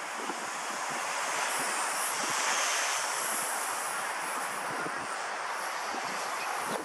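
Walkera V120D02 micro electric RC helicopter's high-pitched motor and rotor whine, dropping in pitch about two seconds in and climbing back, over gusty wind buffeting the microphone.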